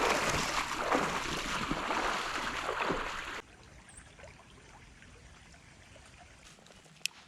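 Creek water rushing and splashing close to the microphone, then cutting off abruptly about three and a half seconds in to a much fainter background of flowing water. A single sharp click near the end.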